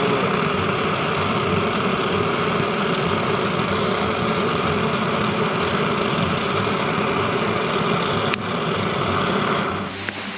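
Steady, loud rush of forced air or gas flame driven into a campfire to get it lit. There is a sharp click about eight seconds in, and the rush cuts off near the end.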